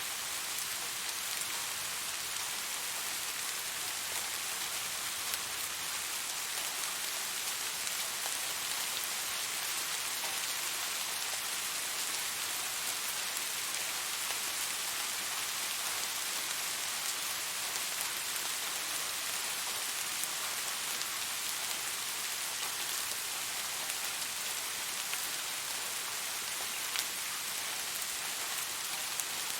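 Steady rain falling: an even, dense hiss of drops with a few sharper single drop ticks now and then.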